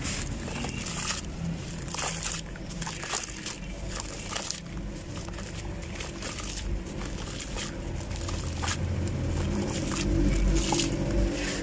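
Dry sand clumps crumbling, with irregular crisp crunches and crackles throughout.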